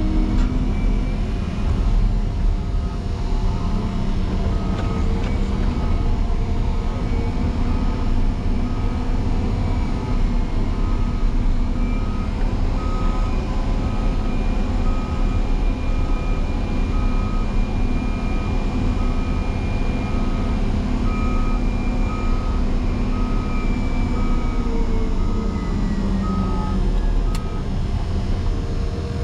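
Caterpillar 140M motor grader's diesel engine running hard, with its reversing alarm beeping about once a second for most of the stretch as the machine backs up from the snow drift; the engine note drops near the end as the beeping stops.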